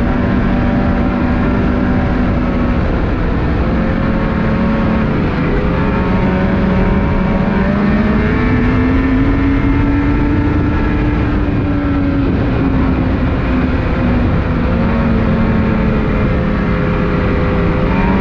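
Ski-Doo Renegade 600R E-TEC two-stroke snowmobile engine running at trail speed, its pitch rising and falling with the throttle, over a steady rush of wind and track noise. The pitch dips about five seconds in, climbs to its highest around ten seconds, then drops back.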